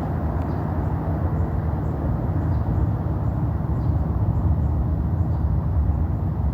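SpaceX Falcon Heavy rocket's engines heard from a distance during ascent: a steady low rumble that swells slightly in the last few seconds.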